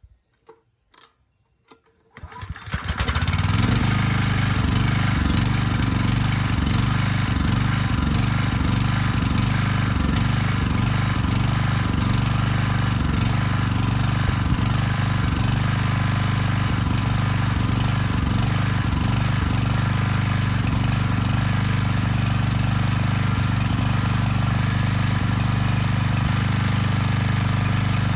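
Rebuilt 10 hp Briggs & Stratton single-cylinder generator engine: a few light clicks, then it starts about two seconds in and runs steadily on its first test run after the rebuild.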